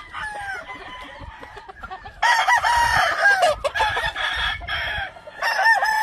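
Gamefowl roosters crowing: one loud crow begins about two seconds in and another starts near the end, over quieter clucking.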